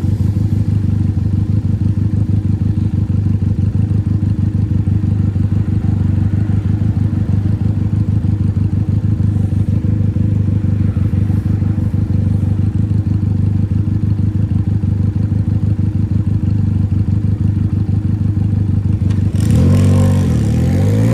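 Benelli 302 parallel-twin motorcycle engine idling steadily through a free, unsilenced exhaust with a rapid low pulse. Near the end the throttle is blipped and the engine revs up, dips and rises again.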